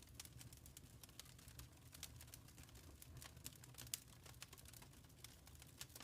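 Wood fire crackling in a fireplace: faint, quick, irregular snaps and pops over a soft low rumble.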